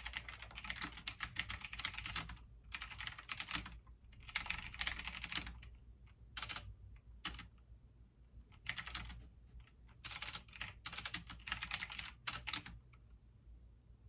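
Computer keyboard typing in bursts of quick key clicks, separated by short pauses, with a steady low hum underneath.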